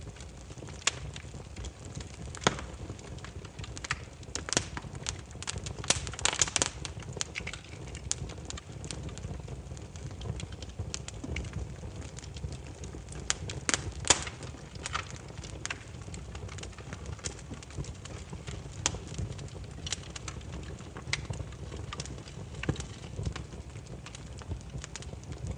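Burning firewood crackling: irregular sharp pops and snaps over a steady low rumble of flames, with quicker runs of pops about five seconds in and again around the middle.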